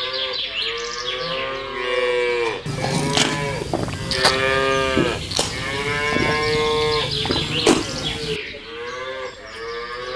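Cattle mooing: four or five long drawn-out calls, one after another, with a few sharp clicks among them.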